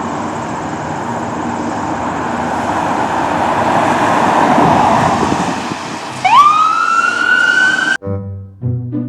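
A loud rushing noise swells and eases, then about six seconds in an emergency-vehicle siren starts, its wail rising quickly and levelling off into a steady tone; the sound cuts off abruptly near the end.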